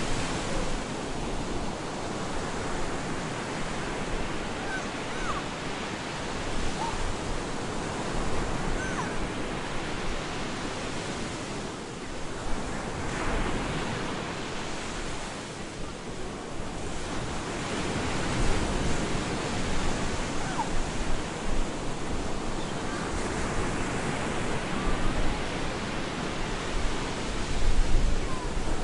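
Stormy surf breaking on a beach: a continuous rushing wash of waves that swells and eases over several seconds at a time.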